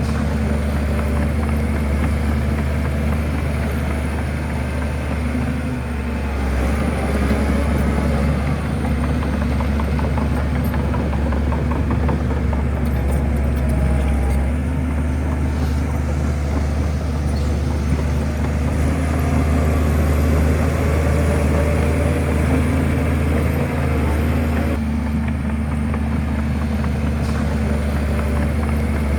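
Bulldozer's diesel engine running with a steady low drone, swelling a little in level now and then.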